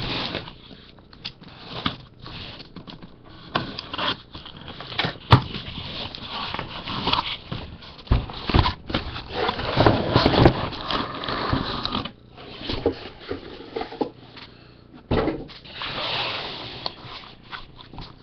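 Cardboard boxes of 2014 Panini Crown Royal football cards being opened and handled: irregular scraping, rustling and knocks of cardboard on the table.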